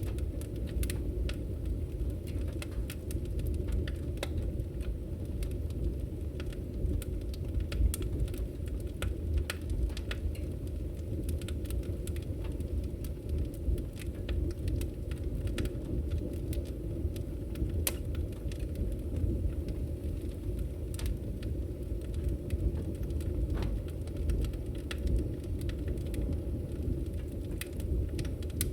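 Wood fire burning: a steady low rumble of flames with frequent, irregular sharp crackles and pops from the burning firewood.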